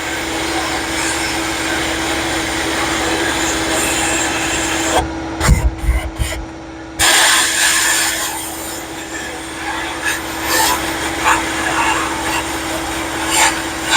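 Glass-bead media blaster hissing steadily as it strips rust from steel floorboards, over the steady hum of a vacuum running to pull out the dust. The blasting stops for about two seconds near the middle, with a few low knocks, while the vacuum keeps running, then starts again.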